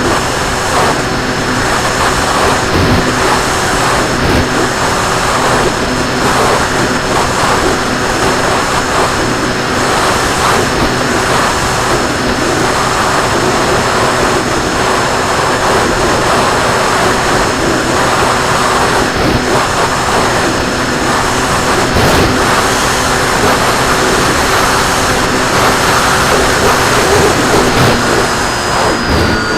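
RC plane's motor and propeller running steadily in flight, a constant whine under heavy wind rush. The pitch shifts slightly near the end, as the throttle changes.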